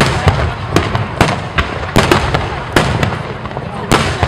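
Starmine fireworks barrage: aerial shells bursting in quick succession, about two to three sharp bangs a second over a continuous low rumble.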